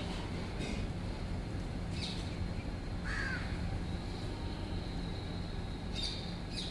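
Short bird calls, with a lower, harsher call about three seconds in and brief high chirps around it, over a steady low rumble.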